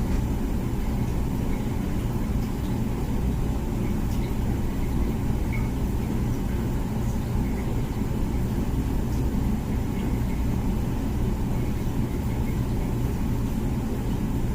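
Comfee dishwasher running its wash cycle: a steady low motor hum with churning water inside the tub.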